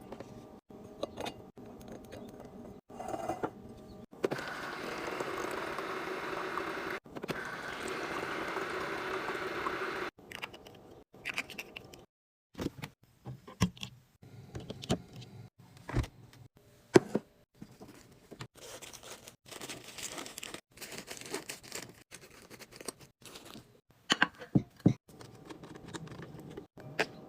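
Groceries and containers being handled: a stretch of steady rustling or scraping, then a run of sharp clicks and knocks, one louder knock near the middle.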